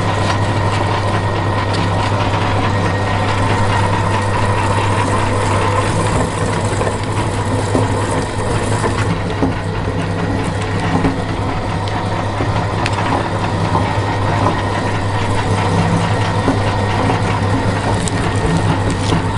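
Electric meat grinder running steadily as it grinds jelly candy, with a constant low drone and a few faint clicks.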